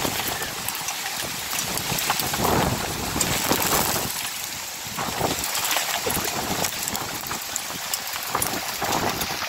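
Heavy storm rain pouring down in strong gusty wind: a dense, loud hiss peppered with many sharp drop hits, swelling and easing with the gusts.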